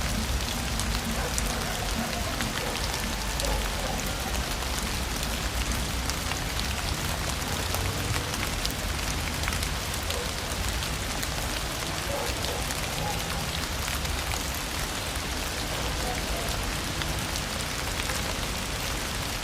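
Steady rain falling on surfaces, with many small drop hits heard through it and a low rumble underneath.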